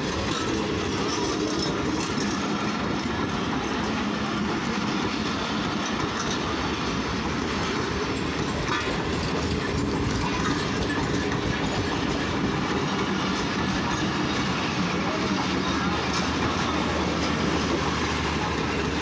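Pakistan Railways passenger coaches rolling past as the train pulls out of the station: a steady rumble of wheels on track, with faint clicks as the wheels cross rail joints.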